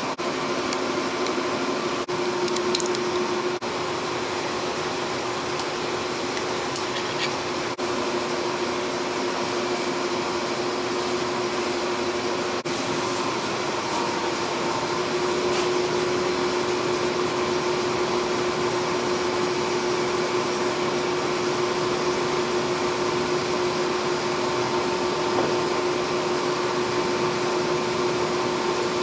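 A motor-driven machine running steadily with a constant hum and whir, getting slightly louder about halfway through.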